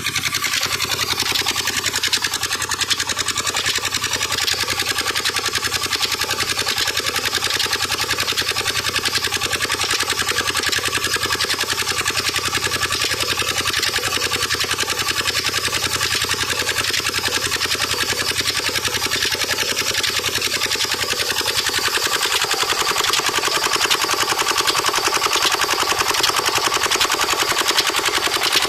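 Old 25 hp Petter stationary diesel engine running steadily with a fast, even beat. About twenty-two seconds in the sound shifts: the deep low part fades and the higher part grows a little louder.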